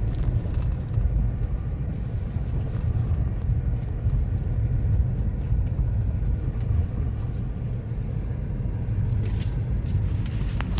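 Car running slowly, a steady low rumble of engine and tyres heard from inside the vehicle, with a short sharp knock near the end.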